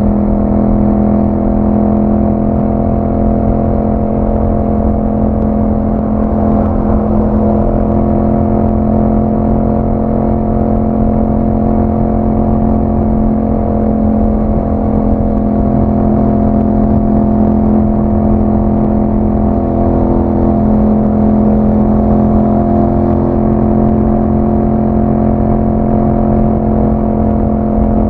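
2021 Yamaha MT-07's parallel-twin engine running through an Akrapovic exhaust, held at a steady engine speed with only slight wavering in pitch.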